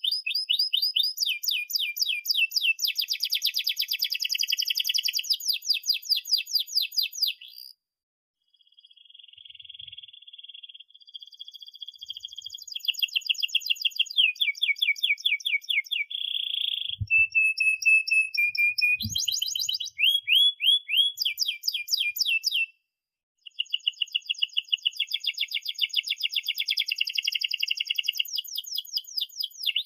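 Domestic canary singing a long rolling song: phrase after phrase of fast trills, each a rapid run of repeated high notes, with two short pauses.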